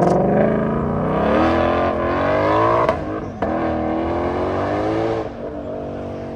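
A car engine accelerating hard away through the gears. The pitch climbs, then drops at each upshift, three times, and the sound fades as the car pulls away.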